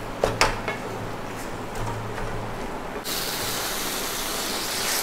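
Bitter gourd and dried tuna frying in oil in a kadai, a wooden spatula scraping and pressing through it as it is mashed. About three seconds in, a steady, louder sizzling hiss starts suddenly.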